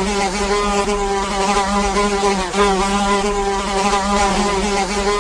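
A housefly buzzing in one continuous drone, its pitch wavering slightly.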